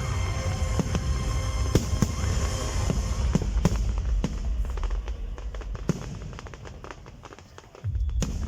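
Fireworks display: repeated sharp bangs and crackles over a low rumble, thinning and fading toward the end, then a loud low rumble cuts in suddenly just before the end.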